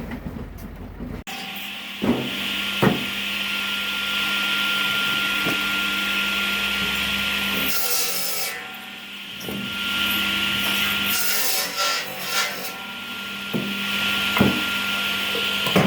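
Firewood being sawn: a steady cutting noise that eases off briefly in the middle, with a few knocks of wood along the way.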